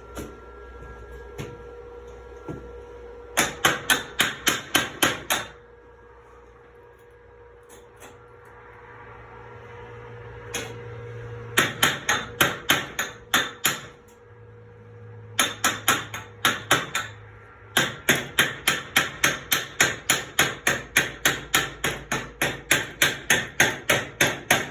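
Chipping hammer rapping on a fresh 6011 stick weld to knock off its slag, a fast run of sharp metal strikes at about five a second. It comes in four spells with short pauses between them. The slag is hard and slow to come off.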